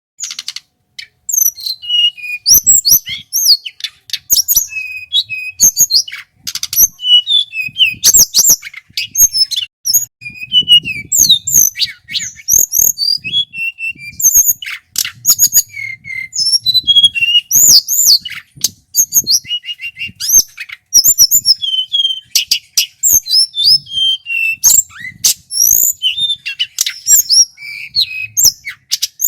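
A male tledekan gunung (mountain blue flycatcher) singing loudly and continuously in fast, varied phrases of high whistles and quick up-and-down slurred notes, broken by short sharp clicks.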